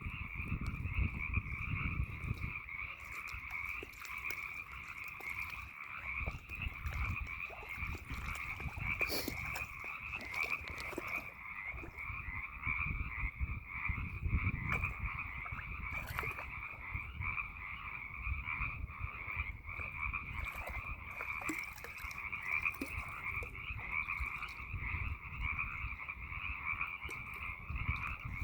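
A dense frog chorus: many frogs calling at once in a steady, unbroken din, with a low rumble underneath.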